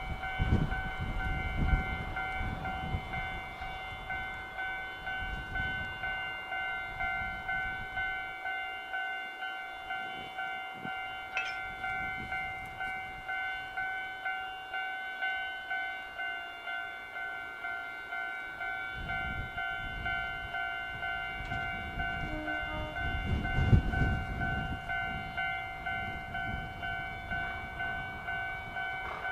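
DD15 diesel locomotive moving about the station during its run-around, its engine rumbling loudest near the start and again about two-thirds in. Over it a steady ringing alarm repeats about once a second.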